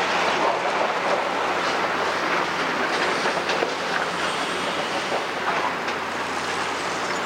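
Caterpillar 345D hydraulic excavator working: its diesel engine runs steadily under a continuous dense clatter of many small metallic knocks and grinding.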